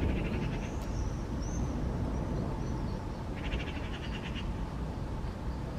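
Birds calling over a steady low rumble: a short rapid trill at the start and again about three and a half seconds in, with a few high chirps in between.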